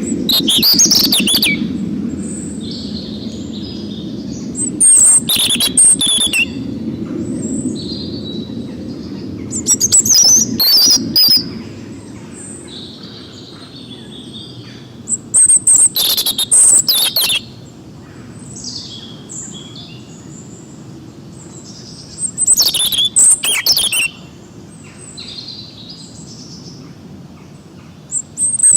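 Forest songbirds singing: one bird repeats a loud, rapid, high trilled phrase about every five to six seconds, with softer chirps from other birds between. A low steady rumble lies under them, strongest at the start.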